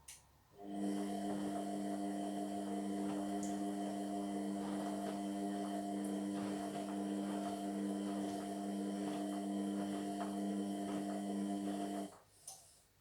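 Indesit MyTime washing machine running a steady electrical hum over a hiss. It switches on with a click just after the start and cuts off suddenly about a second before the end, followed by a couple of clicks.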